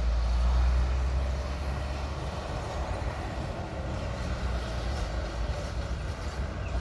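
Mountain bike being ridden: wind buffeting the microphone with a low rumble, over the steady noise of tyres rolling on the ground. The low rumble is heaviest in the first second, then eases.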